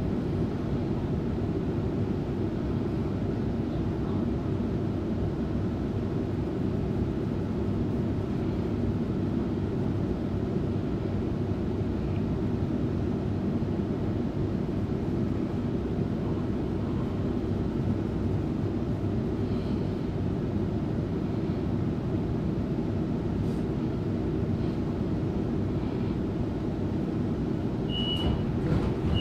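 Steady running noise inside the carriage of a Sydney Trains Waratah Series 2 electric train. A few short high beeps sound near the end.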